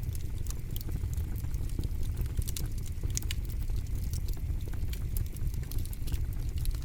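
Campfire crackling: frequent sharp, irregular pops and snaps of burning wood over a steady low rumble of the flames.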